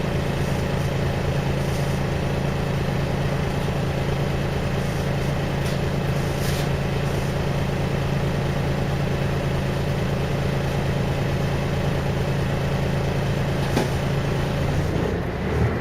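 Diesel engine of a Scania L113 single-deck bus, an 11-litre six-cylinder, running at a steady note; near the end the note drops briefly and then changes.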